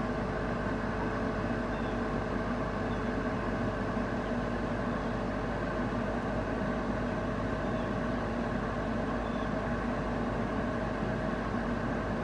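A steady mechanical hum made of several constant tones over a low hiss, with faint, brief high chirps every second or two.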